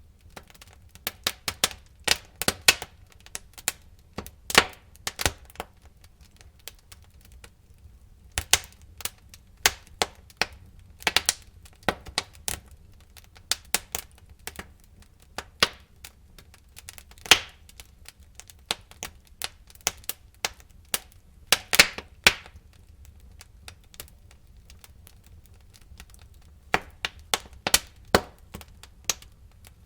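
Wood fire in a fireplace crackling, with irregular sharp pops and snaps coming in clusters over a faint low rumble of the flames.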